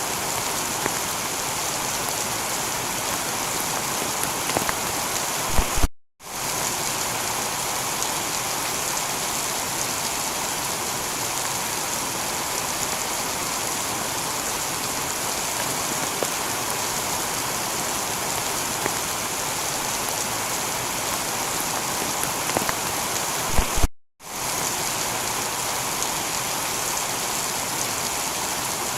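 Heavy rain shower falling on a tiled roof: a steady, even hiss with scattered drop ticks. Twice, about six seconds in and near the end, the sound cuts out for a split second, just after a few sharp ticks.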